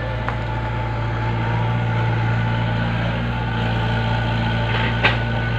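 Excavator's diesel engine running steadily, with a single sharp knock about five seconds in.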